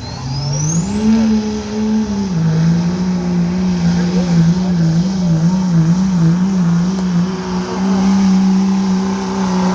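Diesel pickup truck engine revving up hard and holding high revs, its pitch wavering a little mid-run. Over it, the turbocharger whistle rises into a high, steady whine.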